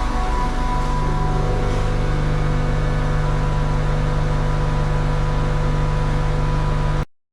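Scania vacuum truck's engine running steadily with a low, even hum, which grows stronger about half a second in. The sound cuts off abruptly about seven seconds in.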